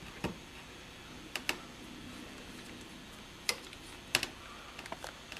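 Scattered sharp clicks and taps at irregular intervals, a pair about a second and a half in and a cluster near the end, as the threaded ends of a new tie rod are handled and turned to adjust its length.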